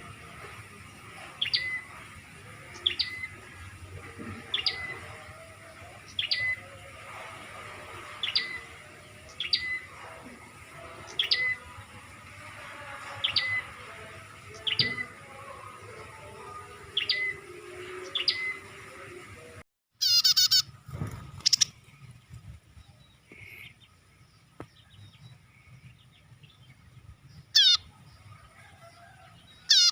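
Recorded prinia (prenjak) lure call: a short call repeated about every one and a half seconds, each a quick falling note ending in a brief lower note. After a short break about two-thirds of the way in, a different, louder and harsher call comes a few times.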